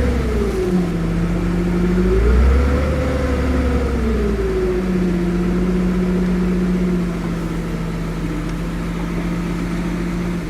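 Heavy diesel engine of earthmoving machinery running with a deep rumble, its revs rising about two seconds in, then dropping back and holding steady.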